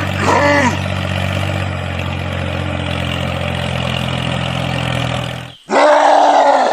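A homemade mini tractor's small motor runs with a steady low hum and cuts off abruptly about five and a half seconds in. A short wavering vocal call comes at the start, and a louder one near the end.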